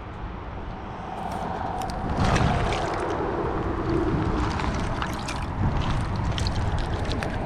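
Outdoor creek ambience: wind rumbling on the microphone over trickling water, with scattered clicks and rustling from about two seconds in.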